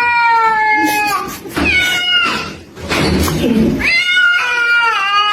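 Cat meowing: three long, loud, drawn-out meows, each about a second long.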